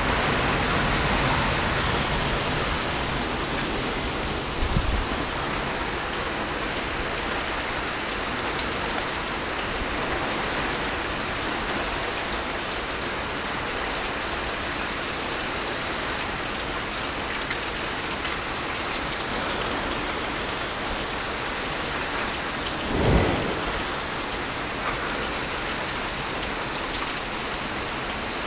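Hard rain falling steadily in a heavy even downpour, a little heavier in the first couple of seconds. Two brief low thumps cut through it, a small one about five seconds in and a sharper one near the end.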